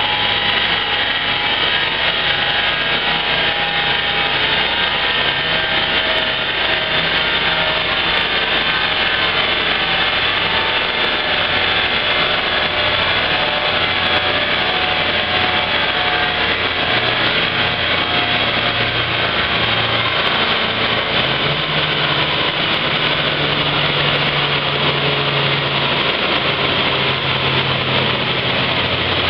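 Small hatchback's petrol engine fitted with a cone air filter, running steadily under load on a chassis dynamometer's rollers. The note holds loud and even, shifting slightly about two-thirds of the way through.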